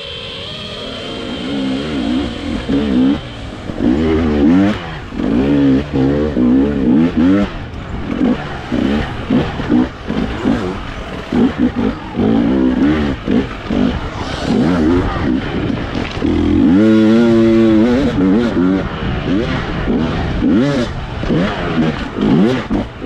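Enduro dirt bike engine revving up and dropping back over and over in quick blips, with one longer held rev about three-quarters of the way through.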